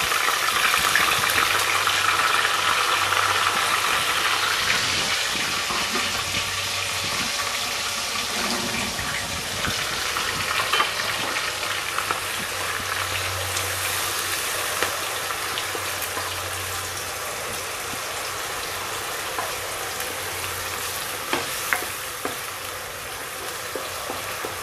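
Freshly added onion, garlic and cumin paste sizzling in hot oil in a nonstick kadai, stirred with a spatula; the sizzle fades gradually as the wet paste cooks down. A few light spatula taps on the pan, around the middle and near the end.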